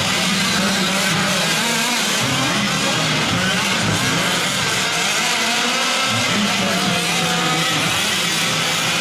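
Several 1/5-scale gas RC trucks' small two-stroke engines racing, their pitch rising and falling as they rev up and back off.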